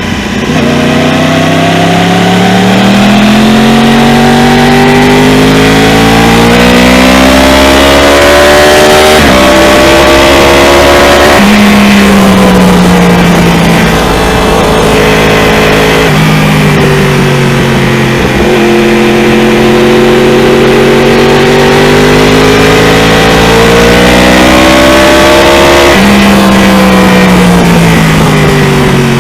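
2015 Yamaha R1's crossplane inline-four engine through an Akrapovic full exhaust system, heard on board while riding: the revs climb under acceleration, then drop sharply at a gear change or a closed throttle and fall away, several times over, with steady wind rush underneath.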